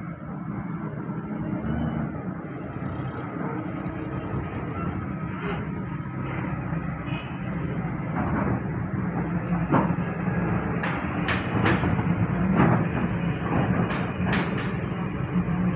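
Heavy earthmoving machine's diesel engine running steadily, with a series of clanks and knocks in the second half.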